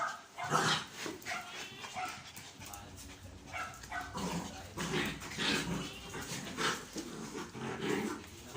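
Puppies at play, giving short yips and whimpers and low growls in irregular bursts, amid scuffling.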